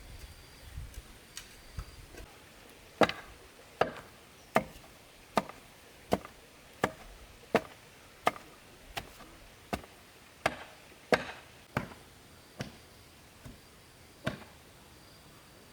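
Steady chopping into bamboo: about sixteen sharp strikes, evenly spaced a little under a second apart, beginning a few seconds in, with a few faint taps before them.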